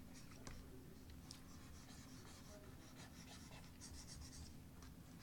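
Faint scratching of a stylus drawing on a graphics tablet, in short strokes with a few light taps.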